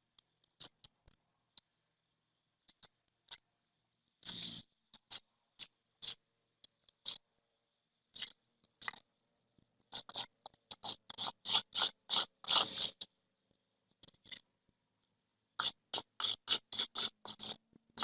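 Snow crunching and scraping in irregular sharp strokes, with short silent gaps between clusters. The strokes come quickest and loudest about ten to thirteen seconds in, and again near the end.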